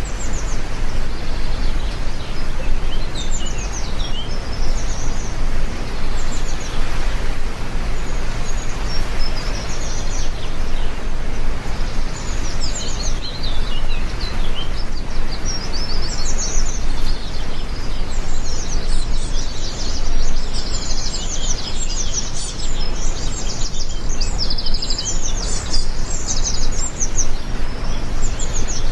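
Steady heavy rain, with birds chirping and twittering over it. The bird calls are scattered at first and become thick and continuous in the second half.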